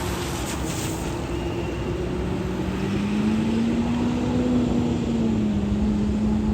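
Utility trucks of a convoy driving on the road: a steady engine and tyre drone whose pitch rises a little about four seconds in and then settles back.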